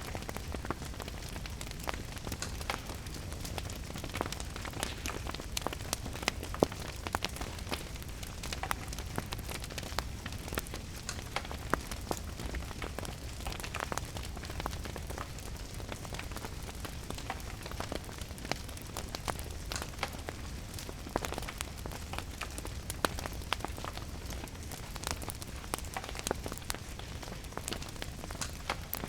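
Steady rain together with a crackling wood fire: an even hiss of rain with frequent small pops and crackles over a low rumble, one pop sharper about six seconds in.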